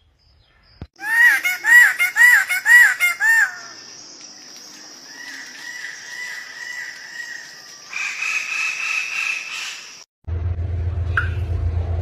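Calls of several different birds in quick succession: first five loud, arched calls about two a second, then a faint pulsing warble, then a steadier high note. A low steady hum comes in near the end.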